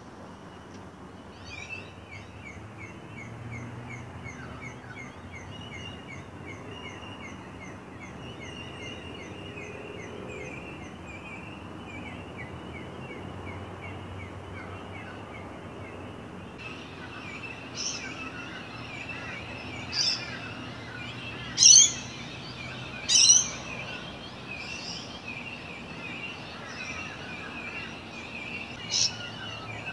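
Birds calling: a fast run of repeated high chirps, about four a second, through the first half, then a handful of louder, sharp separate calls in the second half, the two near the middle of that half the loudest.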